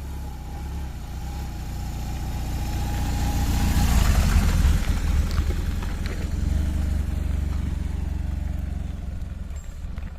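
BMW R1200GS boxer-twin motorcycle engine running, growing louder to a peak about four seconds in and then slowly fading.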